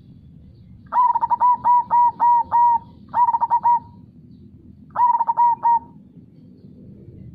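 Zebra dove (perkutut) singing: three bouts of quick, evenly spaced coos, the first long and the next two short. A faint, steady low river rush runs underneath.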